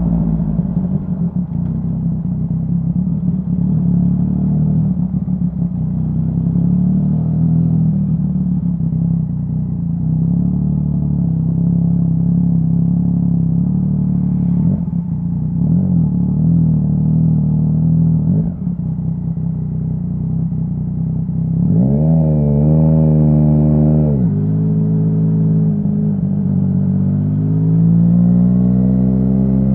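Yamaha Tracer 900's three-cylinder engine through a Dominator HP3 full-system exhaust, heard while riding. It runs at fairly steady low revs, then climbs sharply in pitch about three-quarters through, drops suddenly at a gear change, and pulls up through the revs again near the end.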